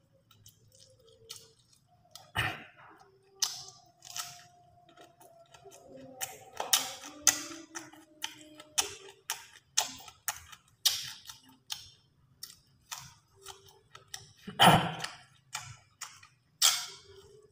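A person chewing food close to the microphone: wet mouth clicks, lip smacks and crunches of raw vegetable, irregular and several a second. A louder crunch comes a couple of seconds in and another near the end.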